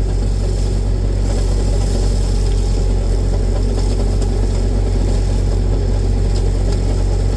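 Tractor engine running steadily under load with the hedgecutter working, a constant low drone without revving changes.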